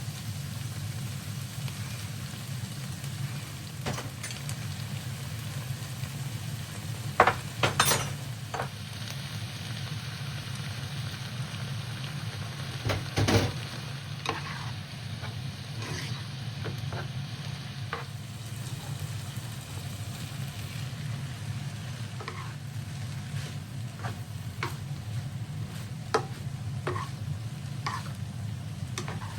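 Food sizzling and frying in a pan over a steady low hum, with scattered small crackles and a few louder knocks of a utensil against the pan about seven to eight seconds in and again about thirteen seconds in.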